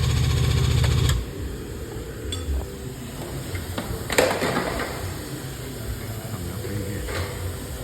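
The pump of a frame-pulling machine runs steadily and cuts off about a second in, then a single sharp metallic clank about four seconds in, with a lighter click near the end.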